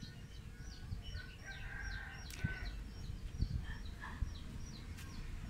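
Birds chirping: a steady run of short, high, falling chirps, about four a second, with a longer, lower call about two seconds in.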